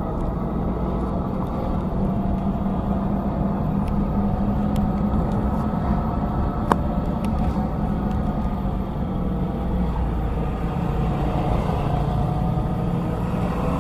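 A vehicle engine running steadily with a low, even drone. There is a single sharp click about seven seconds in.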